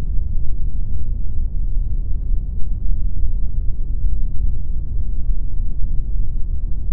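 Pink noise: a steady, even rushing sound, deep and weighted toward the bass, with almost no high hiss.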